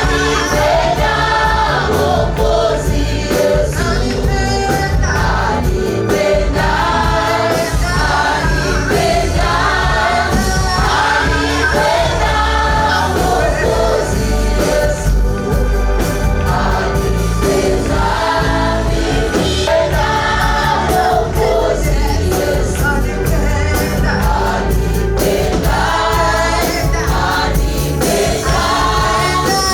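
Choir singing a gospel praise song with band accompaniment and a steady bass and drum beat.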